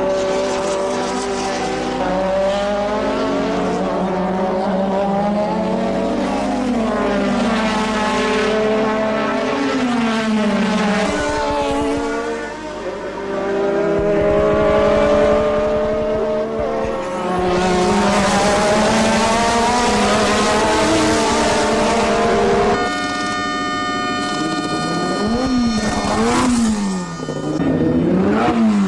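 1984 Formula One race cars at speed, engine notes climbing and then dropping with each gear change, one car after another. Partway through one engine holds a steady note for a few seconds, and near the end the revs rise and fall in quick succession.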